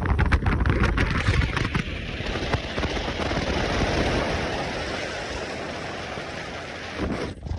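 Motorcycle riding at speed, its engine rumble mixed with wind buffeting the microphone. About two seconds in the low rumble eases and a steady rushing hiss of wind takes over, with a brief dip near the end.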